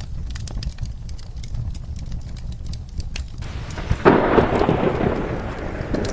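Wood fire crackling with scattered sharp pops over a low rumble. About three and a half seconds in, a rain-like hiss sets in, and a loud thunderclap follows half a second later and rumbles on.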